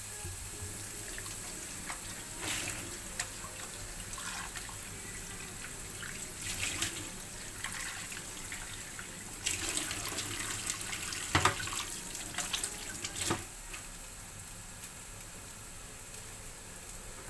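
Onion, garlic, ginger and lemongrass sizzling as they fry in oil in a pan, a steady hiss with a few louder clatters of the stirring utensil against the pan.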